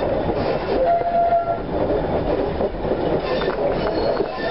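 Steam-hauled wooden railway carriage running along the track: a steady rumble and rattle of wheels and bodywork, with a brief squeal about a second in.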